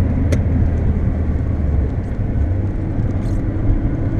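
Volkswagen Golf's engine and road noise heard from inside the cabin while driving on track: a steady low drone with a short click just after the start.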